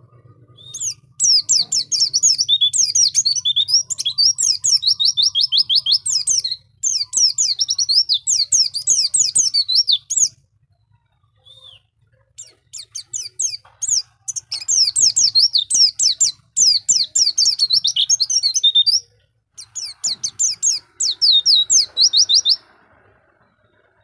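White-eye (pleci) song: long runs of fast, high twittering phrases, breaking off for a second or two about ten seconds in, again around thirteen seconds, and once more near nineteen seconds before resuming.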